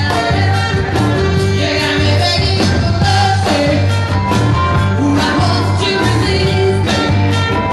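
A band playing a rock-pop song with a lead vocal over bass, drums and guitar.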